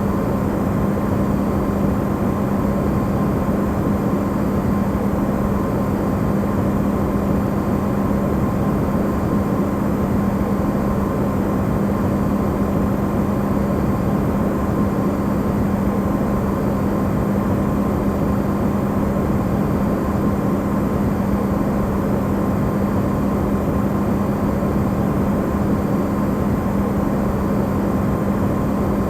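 Electrolux refrigerator running, recorded amplified: a steady low hum over an even rushing noise, unchanging throughout.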